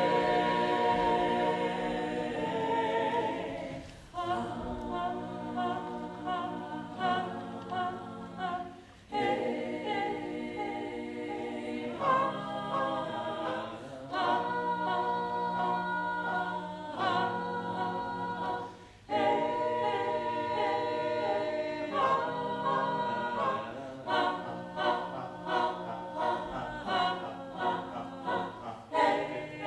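Mixed-voice choir singing a cappella in harmony, in sustained phrases that break off every few seconds, turning to shorter, detached notes near the end.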